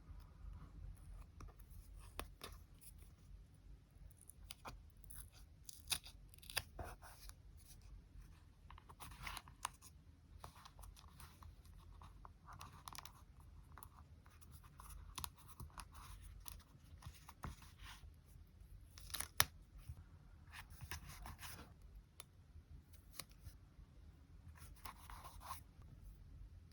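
Quiet paper-craft handling for a journal collage: paper rustling, scissor snips and small taps and clicks at irregular intervals, with a few sharper clicks standing out.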